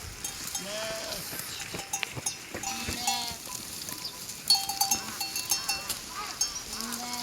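Livestock bleating in several short calls, more of them in the second half, with a small bell clinking about halfway through.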